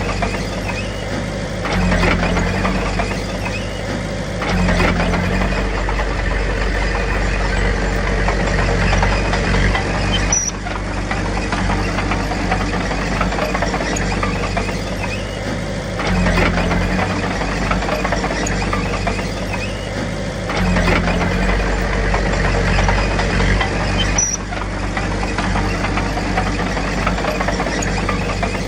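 Small crawler bulldozer's diesel engine working steadily, its note rising and falling in a repeating cycle of loading up and easing off about every 14 seconds, with a few light metallic clinks.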